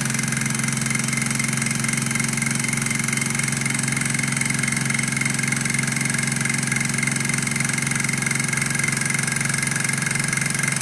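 Small candle-heated beta-type Stirling engine running fast and steadily with an even mechanical whir. It sounds a lot smoother, having been fitted with a better-fitting piston.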